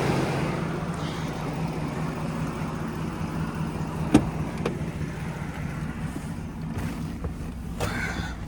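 Roush-supercharged 6.2 L V8 of a Ford F-150 Raptor SVT running while the truck drives, heard from inside the cab with road noise. It eases off after the first second. A single sharp click comes about four seconds in.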